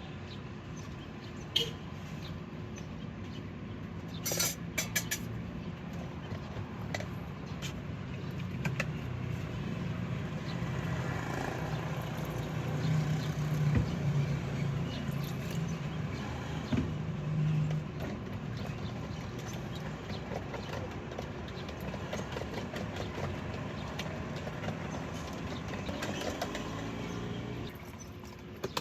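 Roadside traffic noise with a motor vehicle running close by; its low hum swells over several seconds and then fades. A few sharp clicks come early on.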